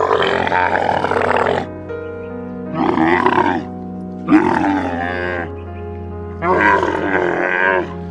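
Four animal calls, each about a second long, with grunting, bending pitch, over steady background music.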